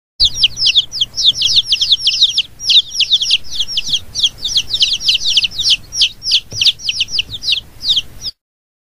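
Many chicks peeping at once: rapid, overlapping high peeps that each slide downward, cutting off suddenly near the end.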